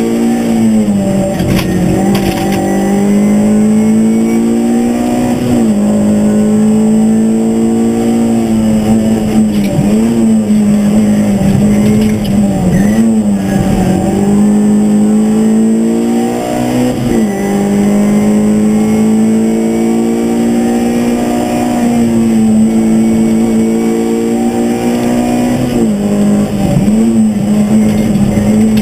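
Škoda Fabia rally car's engine running hard at high revs, heard from inside the cabin. Its pitch dips and climbs back several times through gearchanges and lifts for corners.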